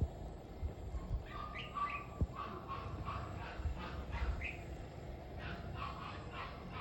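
Red-whiskered bulbuls calling: runs of short, quickly repeated falling notes, in two bouts, with a couple of sharp knocks near the start and about two seconds in.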